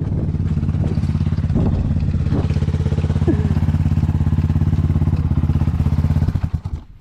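Enduro motorcycle engine running at a steady, even speed, with a few light clatters. About six and a half seconds in the engine sound drops away suddenly.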